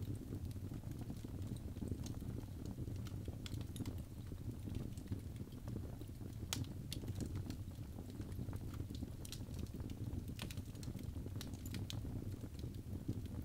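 Birch logs burning in a fireplace: a steady low rumble of the flames with irregular sharp crackles and pops throughout, a few louder pops around the middle.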